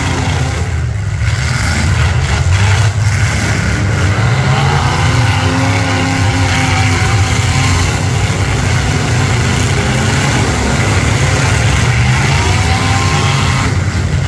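Several V8 demolition derby cars' engines running loud together, revving with rising and falling pitch as they accelerate and back into each other on the dirt.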